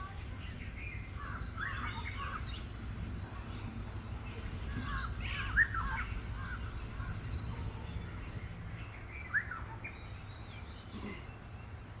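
Several birds chirping and calling in short scattered bursts, with a couple of sharper, louder calls about halfway through and again near the end, over a steady low background rumble.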